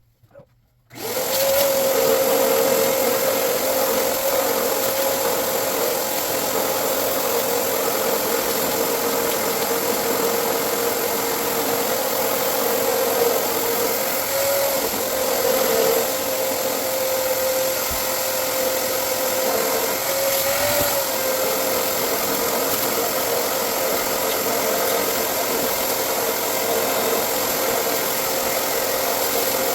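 A small electric motor, in a power tool or appliance, switches on about a second in and runs steadily: a rushing hiss with a steady whine that dips slightly now and then.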